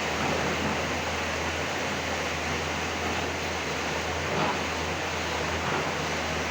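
Steady rain noise with a low engine hum underneath.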